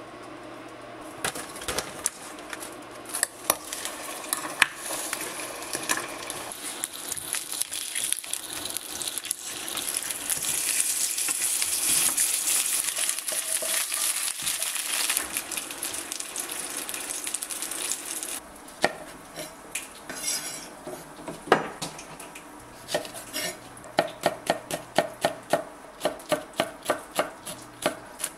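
Dumplings sizzling as they pan-fry in oil, the hiss building and then easing, with utensil clicks against the pan. Near the end, a knife chops green chili peppers on a wooden cutting board in quick, even strokes, about three a second.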